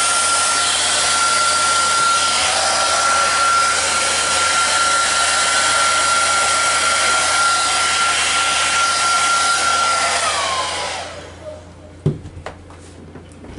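Hair dryer running steadily with a constant whine. It is switched off about ten seconds in and its pitch falls as it winds down. A light knock follows near the end.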